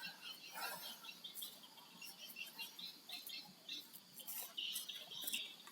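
Small birds chirping faintly: many short, high-pitched calls in quick succession, with a few light clicks.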